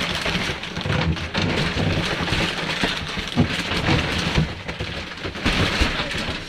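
A large mattress being hauled and shoved into a small cabin: a continuous rustling, scraping noise with scattered thumps and knocks.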